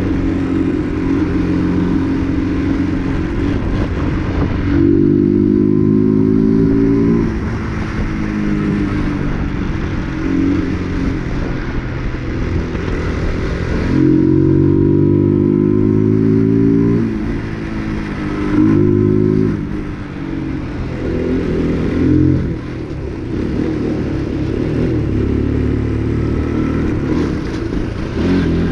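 UM RS 125 motorcycle's 125 cc engine under way, accelerating through the gears. Its pitch climbs and then drops back at each shift, most strongly about five and fourteen seconds in.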